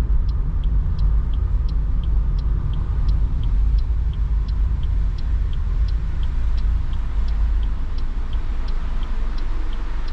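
Car's turn-signal relay ticking steadily, an alternating tick-tock about every three-quarters of a second, over the low rumble of the car in motion as it pulls over to stop. The rumble eases in the second half as the car slows.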